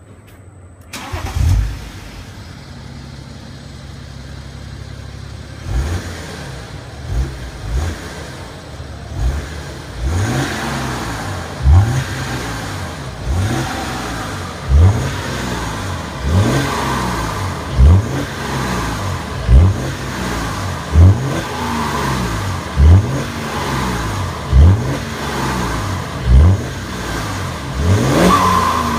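BMW X6 E71 30d's 3.0-litre straight-six diesel with a tuned aftermarket exhaust, starting about a second in and idling, then revved in repeated blips, about one every second and a half, each rising sharply and falling back to idle.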